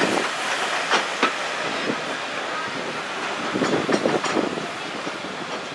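Train of vintage carriages hauled by an LNER Y7 steam tank engine running along jointed track, with irregular wheel clicks over a steady rolling noise.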